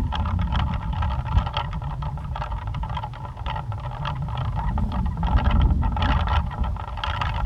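Plastic pinwheel spinning in strong wind, its blades giving a fast fluttering rattle, over a gusting low rumble of wind on the microphone.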